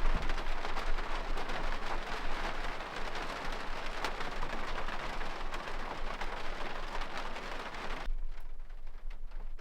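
Rain pattering on the roof of a pop-up truck camper, a dense steady patter of small drops, which drops abruptly to a quieter, thinner patter about eight seconds in.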